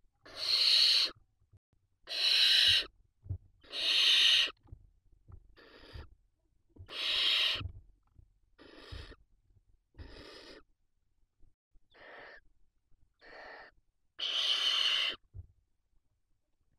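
Barn owl chicks giving their hissing begging calls: about ten breathy hisses of up to a second each, some loud and some fainter, repeated every second or two.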